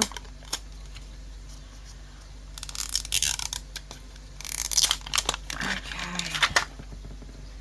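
Plastic wrapper of a mystery ball being torn open along its tear strip, in two bursts of tearing about two and a half and four and a half seconds in, followed by lighter crinkling.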